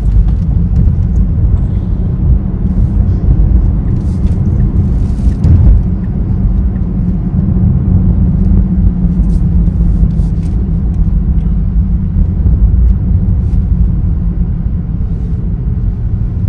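Steady low rumble of a car's road and engine noise, with a few faint clicks.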